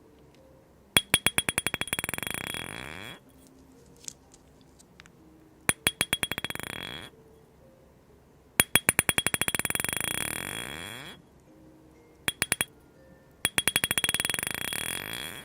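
A small hard object dropped onto a hard surface five times, each time bouncing faster and faster with a bright ringing tone until it settles into a short rattle and stops.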